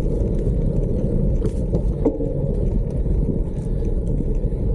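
Steady low rumble of travel noise: wind on the microphone mixed with tyres rolling over a sandy dirt track, with a few faint clicks.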